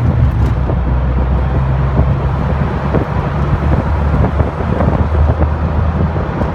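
A moving truck heard from its open bed: a steady low engine and road rumble with wind buffeting the microphone, and frequent small rattles and knocks.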